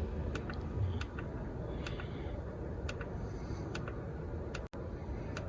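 Car turn-signal indicator ticking steadily, about twice a second, over low road rumble inside the cabin.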